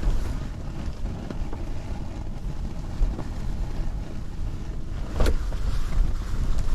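Wind buffeting the microphone as a steady low rumble, with one sharp knock about five seconds in.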